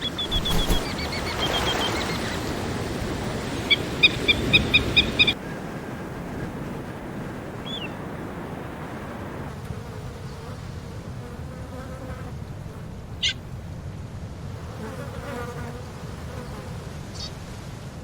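A bird gives rows of short, high repeated call notes, ending abruptly about five seconds in. Insects then buzz, with a few brief chirps.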